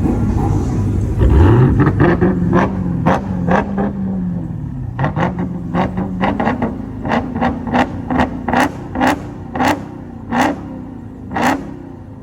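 A car engine revs up about a second in and is held at raised revs, with a string of sharp exhaust pops and bangs, about a dozen, coming further apart toward the end before the revs drop.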